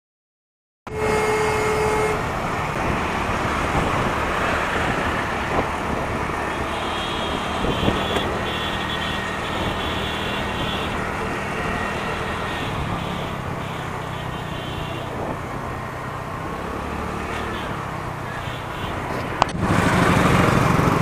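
Riding in city traffic on a motorcycle: steady engine and road noise with the sound of surrounding traffic, starting abruptly about a second in.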